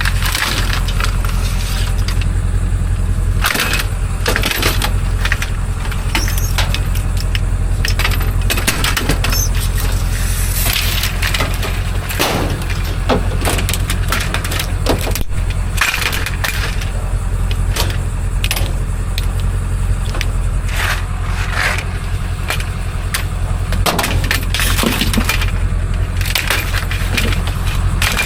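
Scrap metal being handled, with repeated sharp clanks, knocks and rattles of loose pieces over a steady low rumble.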